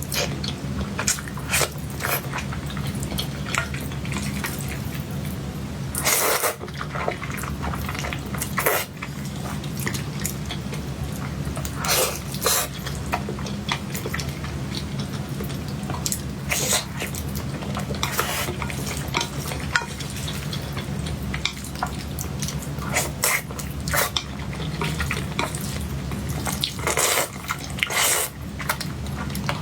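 Close-miked eating sounds of soft cake: wet chewing and mouth clicks, with scattered short sharp clicks of utensils, over a steady low hum.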